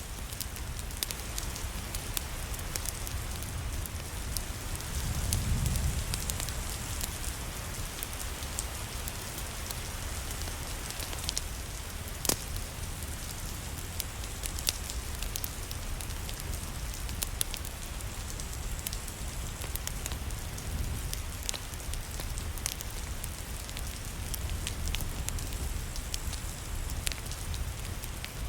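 Steady rain falling, mixed with a wood fire crackling in a fireplace, its scattered sharp pops sitting over the even hiss. A low rumble swells briefly about five seconds in and again more faintly about twenty seconds in.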